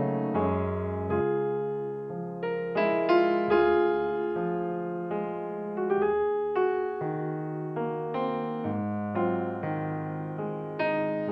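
Background music: a piano playing a gentle melody with chords, notes struck every half second or so.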